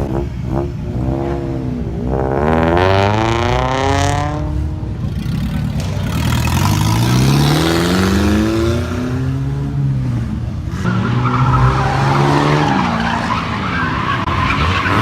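Car engine revved hard again and again, its pitch climbing and dropping, with stretches of tyres skidding as the car is driven hard.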